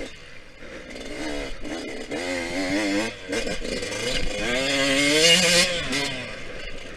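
Yamaha YZ125X two-stroke single-cylinder engine revving up and down under the rider's throttle, its pitch climbing to a high, loud peak about five seconds in and then dropping back.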